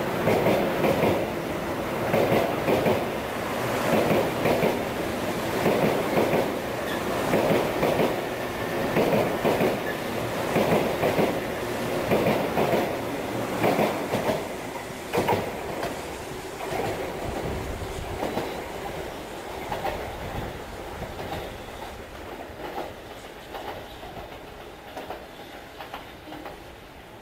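100 Series Shinkansen train running past, its wheels giving a rhythmic clatter about once a second. About halfway through the sound begins to fade steadily as the end of the train draws away.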